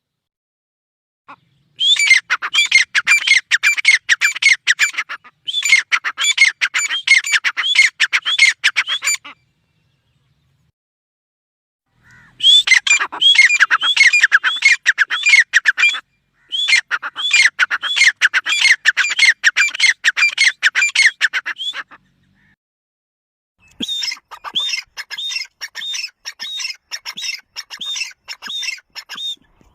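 A female partridge (titar) calling in bursts of fast, harsh repeated notes. There are five runs of several seconds each with short pauses between them, and the last run is fainter.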